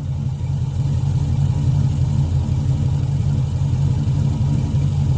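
Truck engine running steadily just after being started, its level rising over the first second and then holding even.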